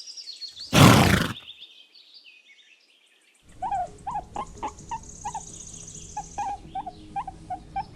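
A pony gives one short, blowing snort about a second in. After a brief silence, small birds chirp repeatedly over a low background hum.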